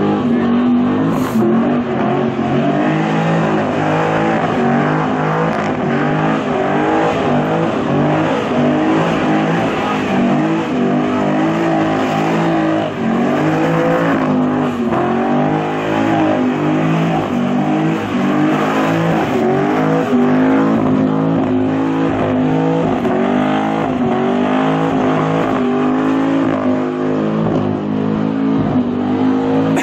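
Holden Commodore's engine revving hard through a burnout, its pitch rising and falling again and again as the rear tyres spin.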